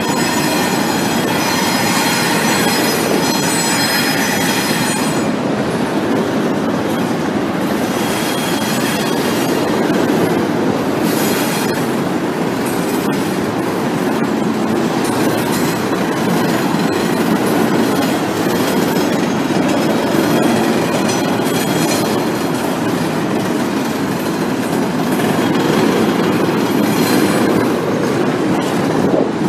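Double-stack container freight train rolling over a steel bridge: a steady rumble of wheels on rail. High-pitched wheel squeal is strongest in the first five seconds and comes back briefly a few times later.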